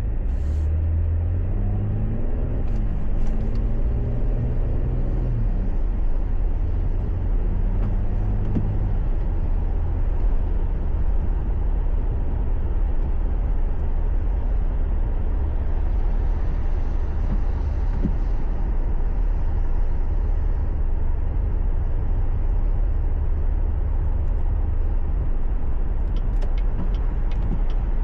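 Car driving, heard from inside: a steady low rumble of engine and road noise. The engine note rises and falls over the first several seconds, and there are a few faint clicks near the end.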